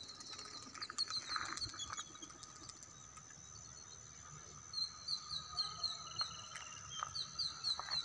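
Faint outdoor ambience with a steady high drone, joined about halfway through by a small bird repeating short, slightly falling high chirps, about four a second.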